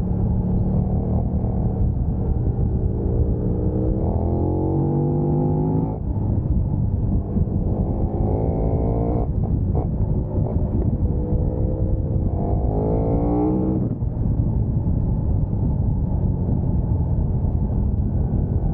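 KTM 1290 Super Duke R's V-twin engine pulling hard three times, its pitch climbing steeply and then dropping suddenly as each gear is changed up, with steady wind rush over the microphone.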